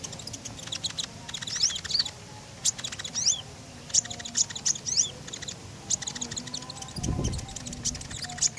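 Konin songbird singing in rapid bursts of sharp, high chattering notes and short slurred whistles, with brief pauses between the bursts. There is a low dull thump about seven seconds in.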